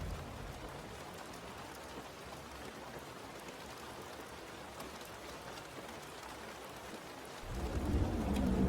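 Steady rain falling, with a low rumble of thunder dying away in the first second and rolling in again about seven and a half seconds in.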